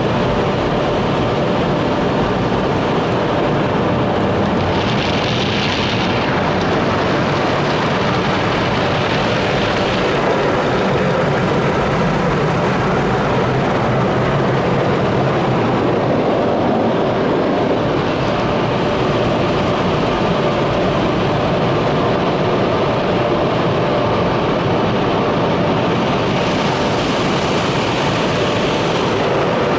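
Tunnel car wash machinery running, heard from inside the car: a loud, steady roar with no let-up.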